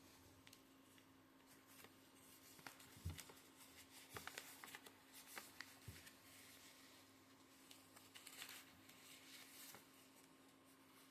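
Faint rustling and crinkling of a square of origami paper being folded and creased by hand, in scattered small clicks and scrapes.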